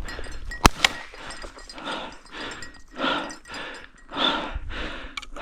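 A person breathing hard in rhythmic, noisy gasps, as from slogging through deep snow. Two sharp clicks come close together about two-thirds of a second in.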